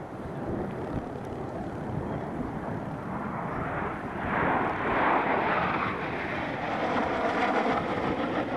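Jet aircraft engine noise, a steady roar that swells louder about halfway through and again near the end.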